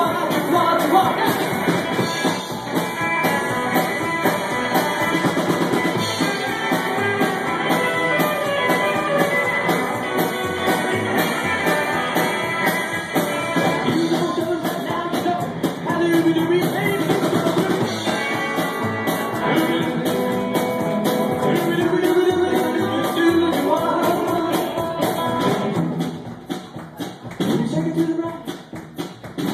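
Live rockabilly band playing, with electric guitars, stand-up bass and a drum kit. The music turns quieter and sparser about 26 seconds in.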